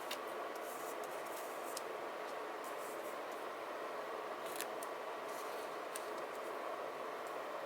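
Paper-craft handling over a steady background hiss: short crisp scratchy snips and rustles of paper and stickers, with a sharp click about four and a half seconds in.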